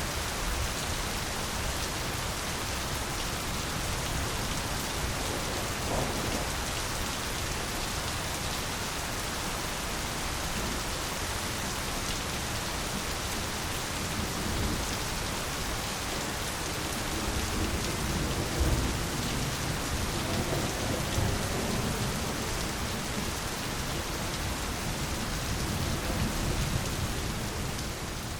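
Steady rain falling in a jungle. A low rumble of distant thunder swells through the middle of the stretch and peaks a little past halfway.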